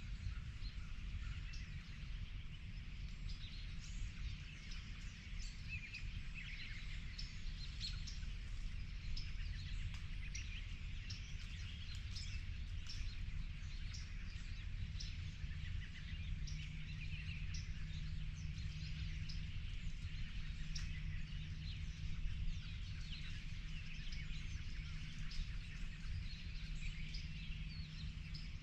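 A chorus of songbirds chirping and trilling, many short overlapping calls, over a steady low rumble; a low steady hum joins about halfway through.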